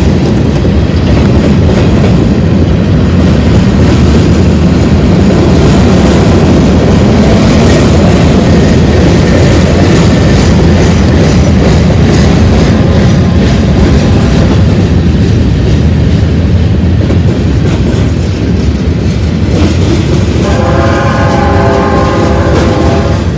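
BNSF freight train rolling past at close range: a loud, steady rumble with wheels clacking over the rail joints. About twenty seconds in, a locomotive air horn sounds a chord for a couple of seconds.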